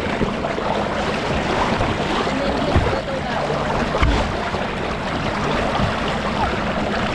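Steady rush of flowing, splashing water on a water-park slide, with a couple of dull knocks about three and four seconds in.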